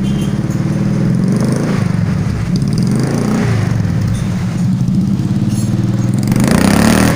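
Suzuki Jimny engine running through a newly fitted full custom exhaust system, from header to tailpipe. It holds a steady low exhaust note, with a couple of light blips of the throttle, one about three seconds in and one near the end.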